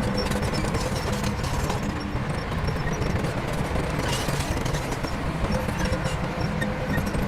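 Diesel engine of heavy construction machinery running steadily under load, with a dense low rumble and a rapid clatter.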